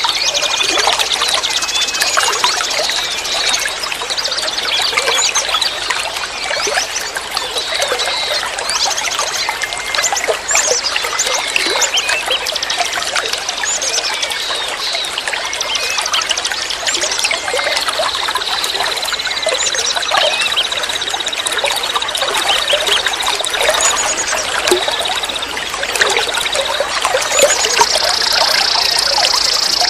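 Water trickling and gurgling steadily, with small birds chirping throughout. A long, steady, high trill runs from about 18 to 25 seconds in, and a higher buzzing trill starts near the end.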